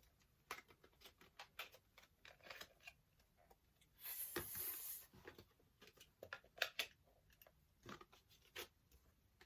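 Faint scattered clicks and taps of magnetic letters being picked up and set on a magnetic board, with a brief rustle about four seconds in.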